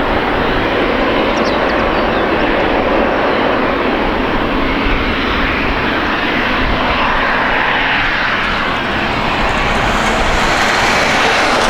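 Loud, steady engine noise from a nearby jet airliner, swelling slightly near the end.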